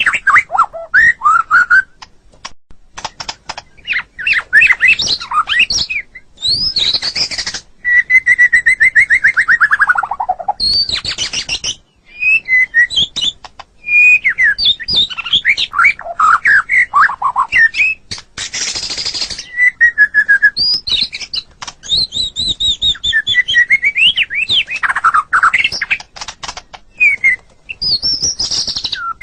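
White-rumped shama (murai batu) singing a loud, varied song of quick whistles and trills in short phrases. About eight seconds in comes a long, falling, slurred whistle, and past the middle a harsh rasping note.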